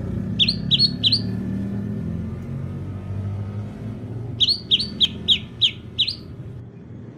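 Short, quick bird chirps, each dropping in pitch: three in a row about half a second in, then six more in a row from about four and a half seconds, over a steady low engine-like rumble.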